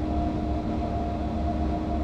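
Flåm Railway electric train running, heard from inside the driver's cab: a steady low rumble from the wheels and running gear under a constant hum from the traction equipment.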